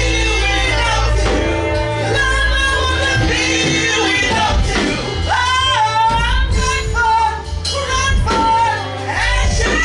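Live worship music: a woman singing a sustained, gliding melody over keyboard and bass accompaniment.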